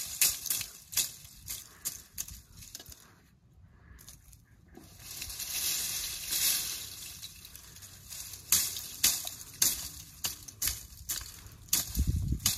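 Food frying, a high sizzle with scattered sharp crackles and pops. The sizzle dies down briefly, then swells again about halfway through.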